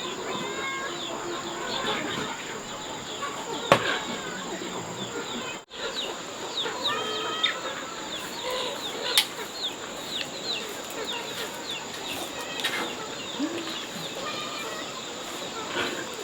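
Birds chirping in many short falling calls over a steady high insect drone, with a couple of sharp knocks.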